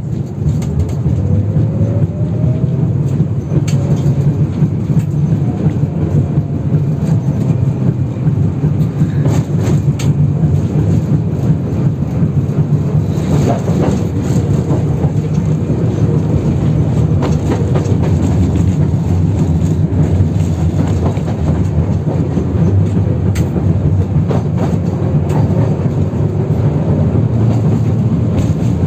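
71-608KM tram running over badly worn track, heard from inside the car: a loud steady rumble with scattered clicks and knocks from the rails. A rising whine in the first few seconds as it picks up speed.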